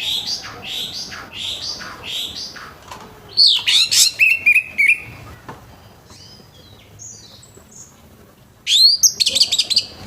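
Orange-headed thrush singing a rough-voiced song of varied, whistled phrases in loud bursts, with a quieter gap in the middle. It ends in a fast run of repeated notes.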